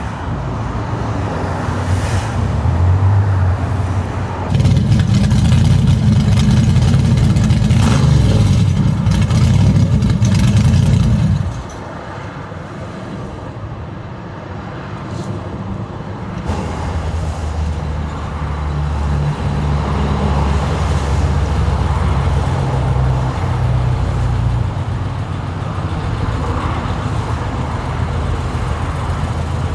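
Classic car engines running, with a louder stretch of several seconds that cuts in and drops off abruptly, then the engine sound builds again.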